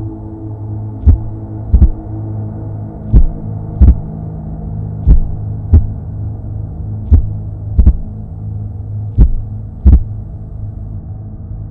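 Heartbeat sound effect: slow paired thumps, a beat and its echo about every two seconds, over a steady low drone.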